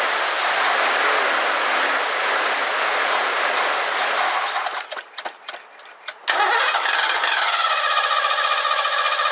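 1984 Ford Mustang GT350's engine being cranked over on the starter after a shot of starting fluid. The cranking breaks off about five seconds in with a few clicks, then resumes as a steady whine. The engine had just fired for a second and died, and the owner suspects bad gas.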